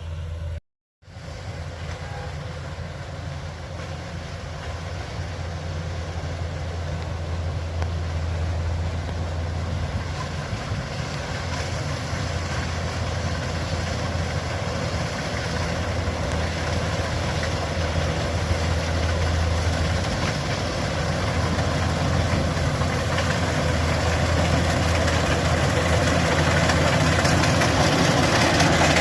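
Kubota DC-105X combine harvester running, a steady low diesel-engine hum under a broad mechanical noise, growing gradually louder. The sound cuts out briefly just under a second in.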